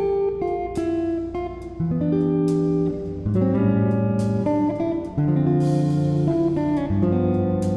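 Background music: acoustic guitar strummed and plucked in a steady, unhurried chord pattern.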